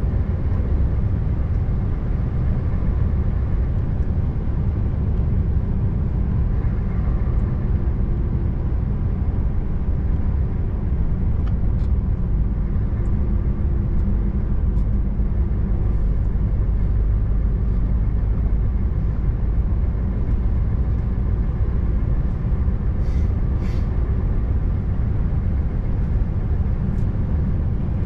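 Scania R590 truck's 16-litre V8 diesel running at a steady cruise, a deep even rumble mixed with road noise.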